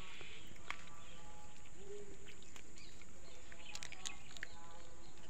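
Outdoor ambience: a steady background hiss with scattered short, faint bird chirps.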